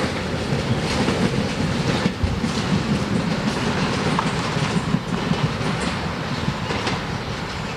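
Train rolling past, its car wheels clicking over rail joints amid a steady rush of rolling noise that eases slightly near the end.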